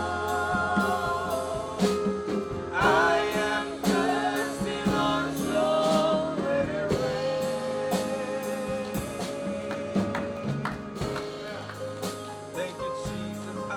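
Live gospel worship music: singing over a band with guitar and drums, the level slowly easing off toward the end.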